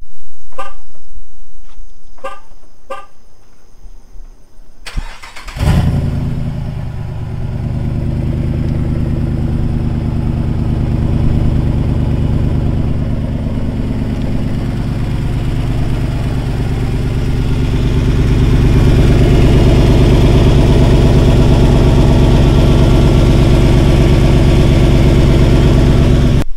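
A few short ticks, then a Jeep Commander's 5.7 Hemi V8 fires up about five seconds in and runs at a steady idle through a straight-piped exhaust with the resonator still on. The exhaust note grows a little louder about two-thirds of the way through.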